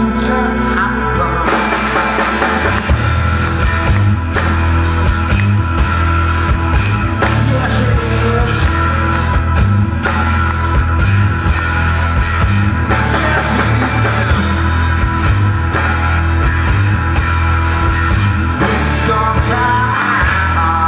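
Live rock band playing a largely instrumental passage. Sustained chords come first, then the drums come in with a steady beat about a second and a half in, under a full band.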